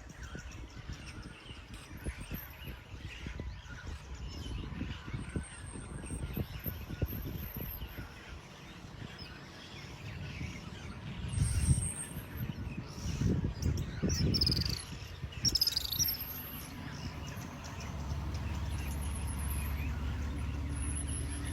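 Wild birds chirping in short, high calls, with a few quick falling calls past the middle. Low rumbles and knocks sound underneath, and a steady low hum comes in near the end.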